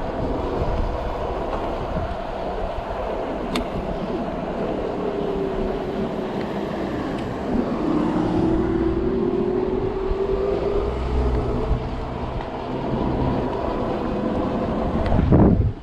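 Riding noise from an electric bike on city streets: a steady low rumble of tyres and wind, with a single click a few seconds in and a humming tone that dips and then rises in pitch through the middle.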